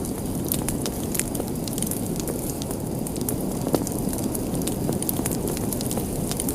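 Wood fire burning in a fireplace: a steady low rush of flame with scattered crackles and pops, one louder pop a little past halfway.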